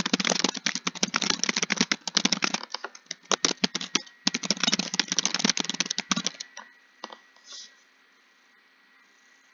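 Fast typing on a computer keyboard: a rapid stream of key clicks, thinning out briefly in the middle, then picking up again before it stops about six seconds in.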